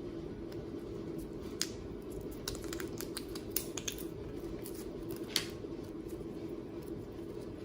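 A handful of short, sharp clicks and taps, irregular and clustered in the middle, over a steady low hum.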